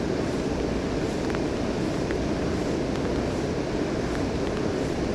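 Steady rushing of river water pouring over a spillway, with a few faint ticks scattered through it.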